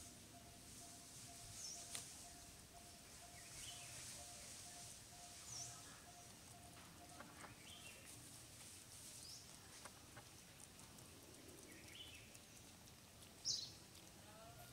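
Quiet outdoor ambience with a small bird giving a short, high, falling chirp every three to four seconds, the loudest about a second before the end, and softer calls in between. A faint pulsing tone runs underneath and stops about halfway.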